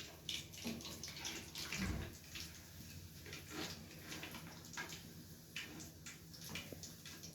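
Faint, scattered rustling and light taps as freshly fried chicken pakoda pieces are handled on tissue paper.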